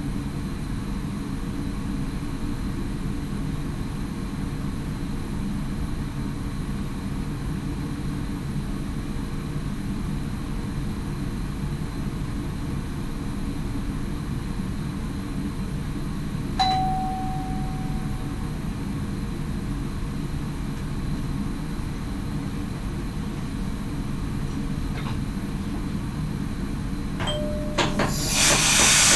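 Steady running rumble inside the cab of an NS SGM Sprinter electric train. A single cab chime sounds about two thirds of the way in and rings for about two seconds, with a shorter click and tone near the end, and then a sudden loud rushing noise swells up right at the end.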